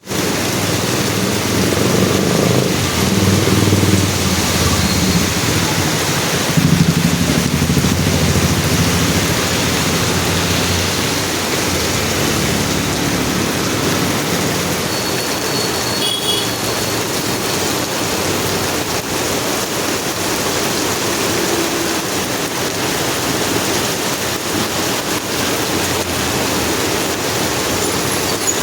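Train running past, a loud steady rushing of wheels on rail with a low engine hum in the first ten seconds or so.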